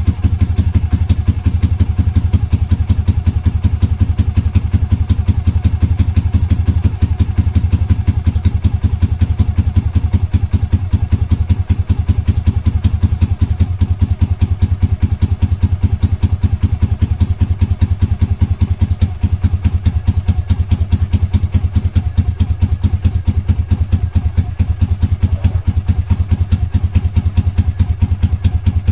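Honda GB250's air-cooled single-cylinder engine idling steadily, a fast even beat of exhaust pulses, on its first run after sitting unused for a long time.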